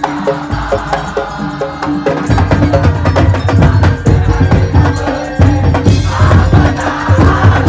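Madurese tong-tong music: an ensemble of wooden slit drums and drums playing a fast, even rhythm over a held tone, with a heavy low drum pattern coming in about two seconds in.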